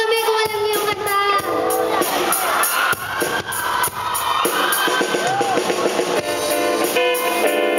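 Amateur rock band playing live: a singer over a drum kit and band instruments.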